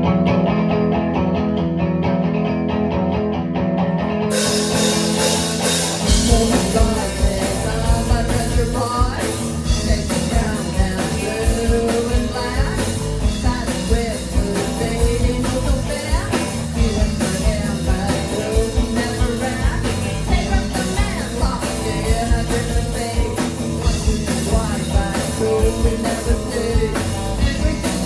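Live rock band starting a song: held guitar chords at first, cymbals coming in about four seconds in, then the full drum kit and bass about six seconds in, with a voice singing over it.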